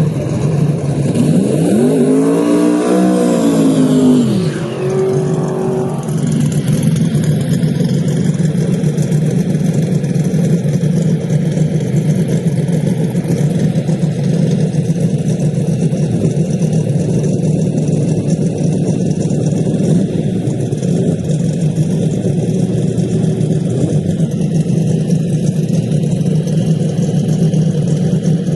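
Drag race car engines running steadily at a low idle note, with an engine revving up and dropping back down over a few seconds about a second in, and a shorter rev soon after.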